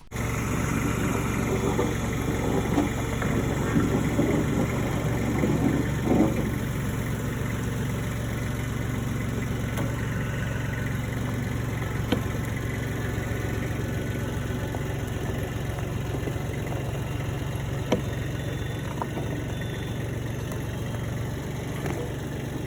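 Car engine idling steadily, with a couple of short clicks.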